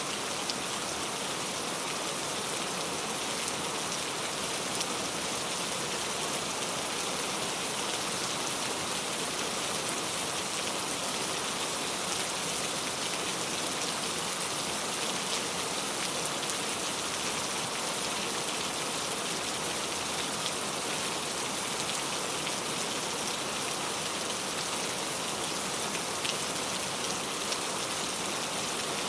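Steady rain falling, an even wash of sound that holds level throughout, flecked with small ticks of single drops.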